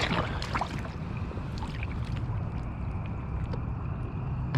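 Steady low outdoor rumble with a faint hiss over it, broken by a few faint, short ticks and small splashes.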